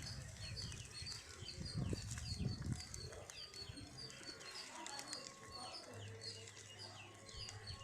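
A small bird chirping over and over, short high-pitched calls several a second. A few low knocks come in the first three seconds.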